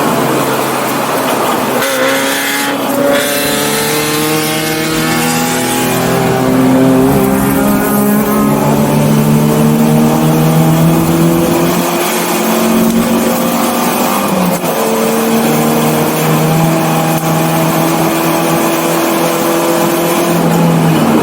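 1984 BMW 318i's four-cylinder engine pulling hard on track, its pitch climbing through the revs and dropping back at several upshifts.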